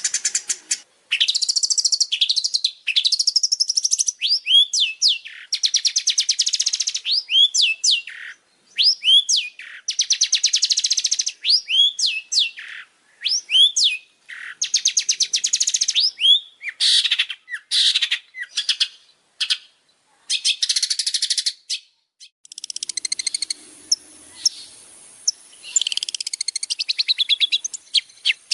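Songbird song: fast buzzy rattling trills alternating with short up-sweeping whistled notes, in short phrases with brief gaps. Near the end, after a short pause, comes a denser mixed chatter.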